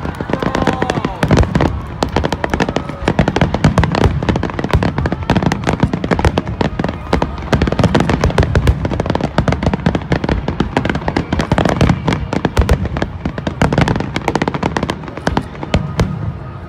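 Grand finale of aerial firework shells: a dense, continuous barrage of bangs, one burst overlapping the next.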